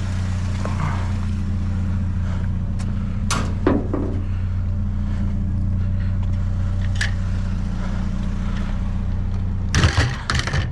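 Truck engine running with a steady low hum, with a single knock about three and a half seconds in and a short clatter of knocks near the end.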